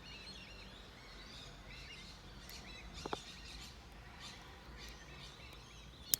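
Birds chirping repeatedly, in short arched notes, over a low background hum. A short click comes about three seconds in, and a sharper, louder click near the end.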